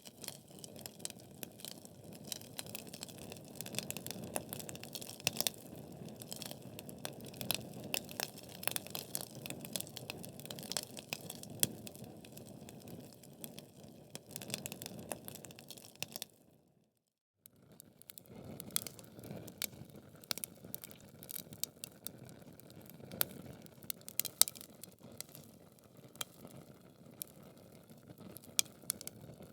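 Wood logs burning in a fireplace, crackling and popping over a low steady rush of flame. The sound cuts out for about a second and a half just past the middle, then resumes.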